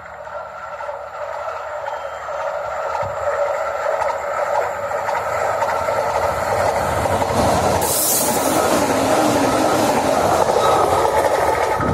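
Renfe Cercanías electric commuter train approaching and passing close by at speed: the rumble and hiss of its wheels on the rails grow steadily louder as it nears, with a brief loud rush of air about eight seconds in as it goes past.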